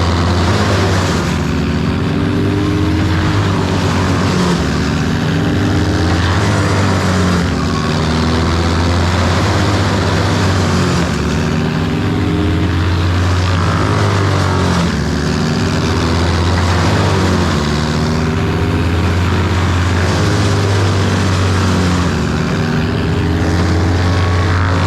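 A large engine running steadily throughout, its pitch wavering slightly every few seconds as the load changes.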